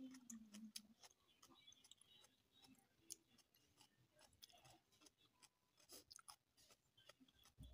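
Faint close-up chewing of fried instant noodles, with small wet mouth clicks scattered irregularly throughout.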